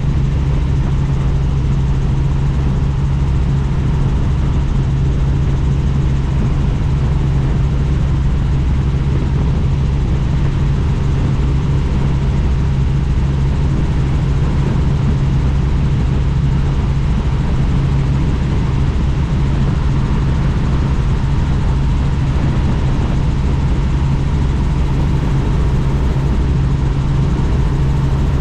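Helicopter in flight heard from on board: steady rotor and engine noise with a constant low hum, unchanging throughout.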